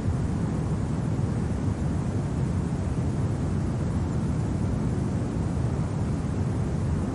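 Steady, low wind rumble of a winter ambience, even throughout with no gusts.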